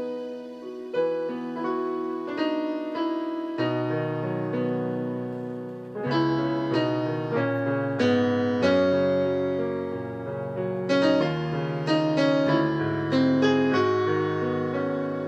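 Slow instrumental keyboard music, piano-like chords held and re-struck every second or so, with a bass line coming in a few seconds in.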